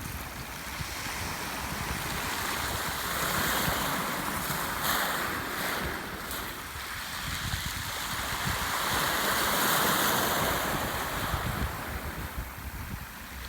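Black Sea waves washing onto the shore, the surf swelling and fading in slow surges about every six seconds, with wind rumbling on the microphone.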